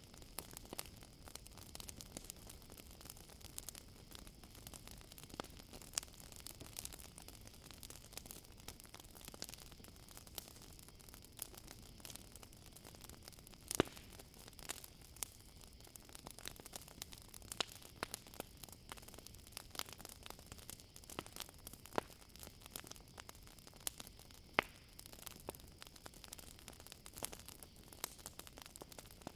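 Campfire crackling, with frequent sharp pops and snaps and a couple of louder cracks, over a steady high chorus of crickets.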